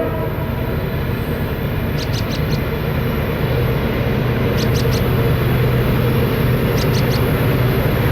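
CSX autorack freight train rolling past: a steady rumble of wheels and locomotive engines with a low hum, and a quick run of three or four clicks about every two seconds as wheels cross a rail joint.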